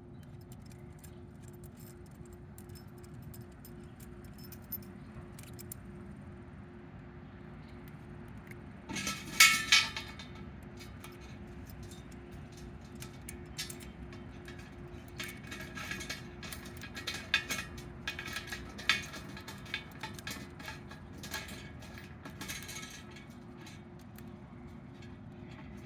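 Small metal parts clinking and rattling as a valve, gasket and back piece are fitted into the metal pot of a water distiller: scattered clicks, a louder clatter about nine seconds in, and a run of small clinks in the second half, over a faint steady hum.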